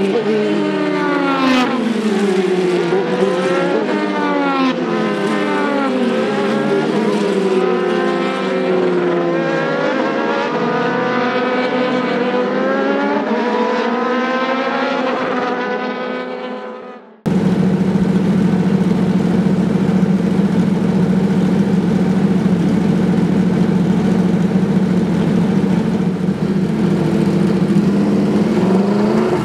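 Several race cars passing at speed, their engine notes overlapping, rising with the throttle and falling as they go by. About seventeen seconds in, the sound cuts abruptly to a single engine running at a steady pitch.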